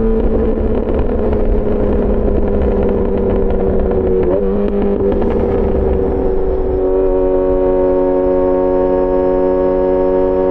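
Yamaha XJ6 S inline-four motorcycle engine through an SC-Project aftermarket exhaust, running rough and varying under throttle, then settling about seven seconds in to a steady, even note.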